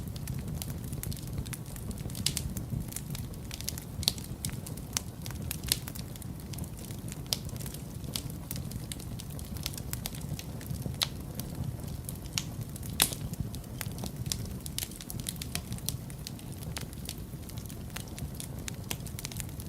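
Wood fire burning in a fireplace, with a steady low rumble and many irregular crackles and pops of burning logs; one pop about thirteen seconds in is the loudest.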